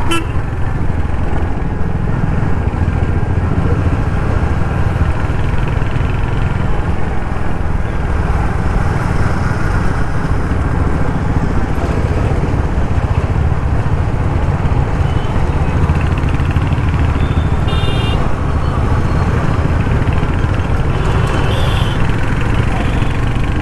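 Royal Enfield Hunter 350's 350cc single-cylinder engine and exhaust running steadily as the bike rides through traffic. A brief high beep sounds about three-quarters of the way through.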